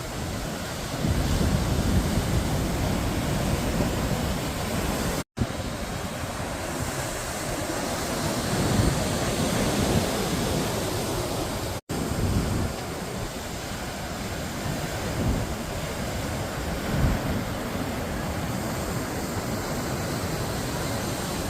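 Ocean surf: waves breaking and washing in a steady rush with swelling surges. The sound drops out for an instant twice.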